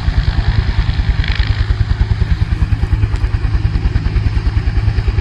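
Helicopter running on the ground, its rotor blades beating rapidly and evenly over the steady hum of the turbine.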